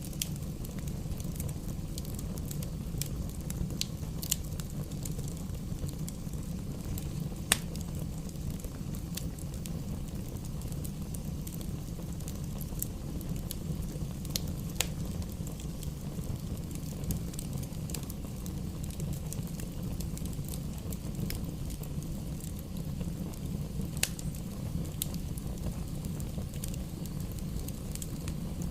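Wood fire crackling in a fireplace: a steady low rush of flames with scattered sharp pops, the loudest about seven and a half seconds in.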